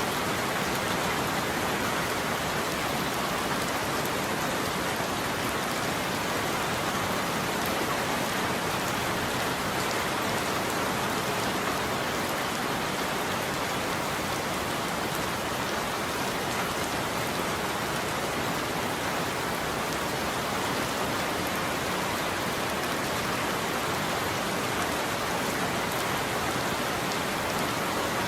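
Steady rain falling on a roof, an even unbroken patter with no thunder.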